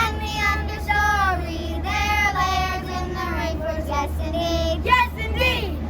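Child's voice singing a song in long held notes that glide downward, with a few short notes near the end, over a steady low hum.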